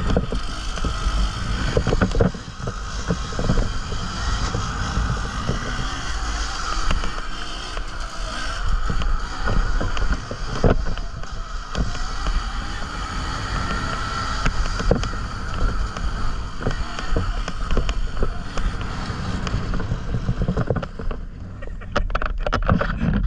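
A dirt bike is being ridden over rough ground: a steady, slightly wavering whine from the drive, with heavy wind rumble on the microphone and repeated knocks from bumps in the trail.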